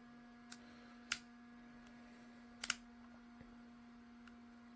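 A few sharp clicks and taps of hard 3D-printed plastic being handled, spread out with a quick double click a little past halfway, over a steady faint hum.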